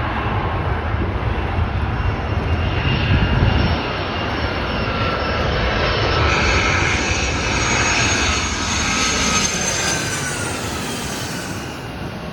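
United Airlines Boeing 757-300 jet airliner on approach passing close by. A deep engine rumble gives way to a high turbofan whine that falls slightly in pitch as the plane moves away, fading near the end.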